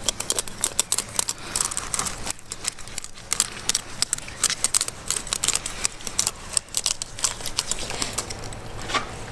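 A knife cutting through python skin, making rapid, irregular clicking and crackling as the blade works along the scaly hide.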